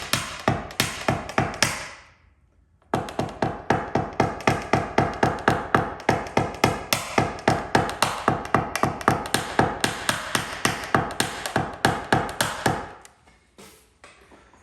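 Rapid light hammer taps, about four a second, of a paintless dent repair tap-down tool on a vehicle's sheet-metal panel, working the dent during a glue-pull repair. The tapping pauses for about a second near the start and stops shortly before the end.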